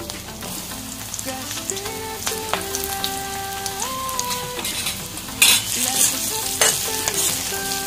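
Besan-coated okra (bhindi) sizzling in hot oil in a kadhai as the pieces go in and are stirred with a metal spatula, with two sharp scrapes of the spatula on the pan about five and a half and six and a half seconds in.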